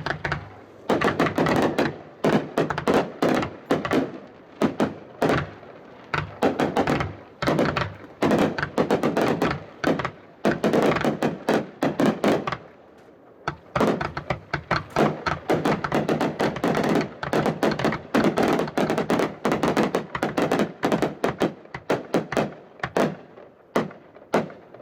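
Captain's Finale, three consumer firework cakes fused to fire together, going off in rapid, dense volleys of shots and breaks. There is a short lull about halfway, and the firing thins out toward the end as the cakes finish.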